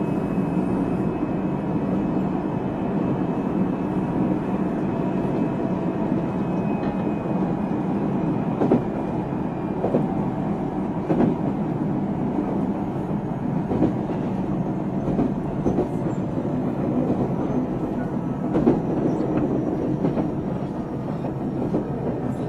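Running noise inside a JR Central 373 series electric train, the F2 set that is noted for an unusual noise: a steady rumble of wheels on rail with irregular rail-joint clacks and a faint high whine that sinks slightly in pitch.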